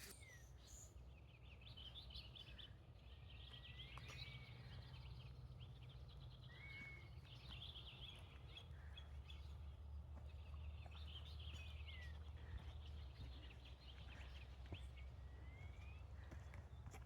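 Faint birdsong: scattered high chirps and trills with short rising and falling whistled notes repeating through, over a low steady rumble.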